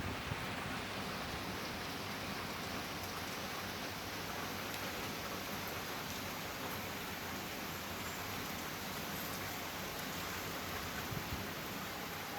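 Steady typhoon rain falling as an even hiss, with a few faint drop ticks.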